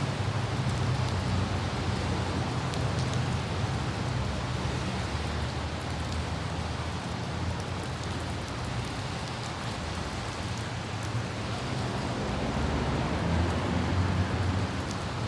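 Car driving on a wet road in light rain: a steady low road rumble under a hiss of rain, with a few scattered raindrop ticks.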